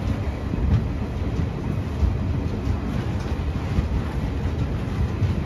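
Garib Rath Express passenger train running at speed: a steady low rumble of wheels on the track with faint clicks.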